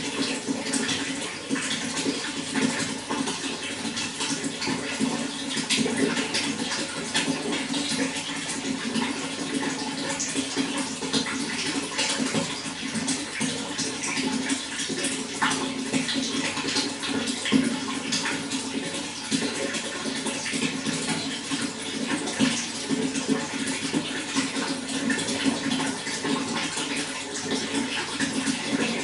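Running water flowing and splashing in a steady, unbroken stream.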